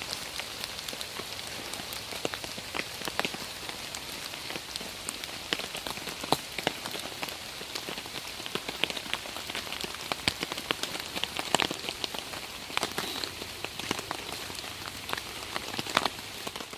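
Heavy rain falling steadily, a constant hiss with many separate drops pattering close by.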